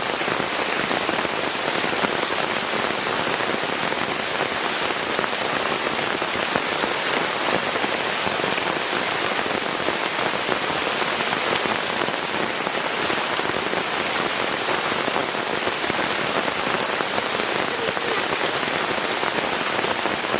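Heavy rain falling steadily, a dense, even hiss of drops that never lets up.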